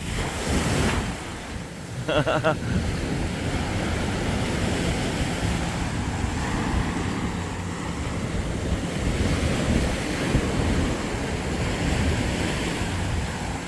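Surf washing onto a sandy beach, with wind buffeting the microphone as a steady low rumble.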